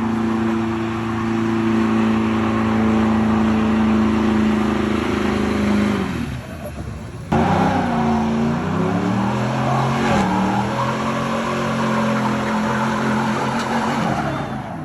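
Truck engine held at steady high revs for about six seconds, then, after an abrupt change about seven seconds in, revving up and down.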